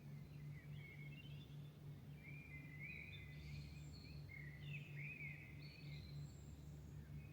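Songbirds singing at dawn: faint overlapping chirps and warbled phrases, busiest in the middle, over a steady low hum.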